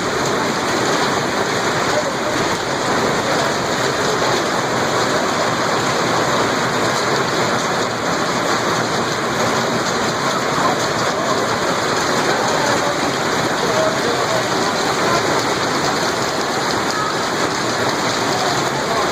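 Heavy storm downpour beating down in a dense, steady hiss that cuts off suddenly at the end.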